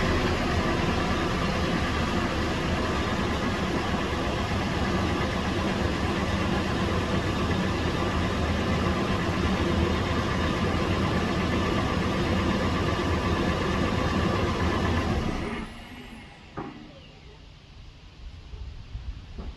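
Toyota 4Runner's 4.0 L V6 engine and exhaust running steadily, heard from inside the cabin. The sound drops away sharply about three-quarters of the way through.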